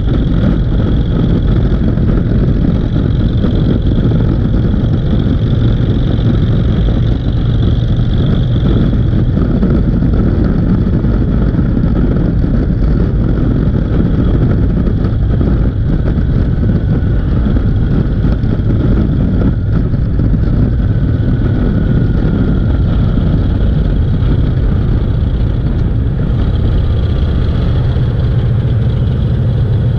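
A motor vehicle's engine running steadily with road noise: an even, loud low rumble that does not let up.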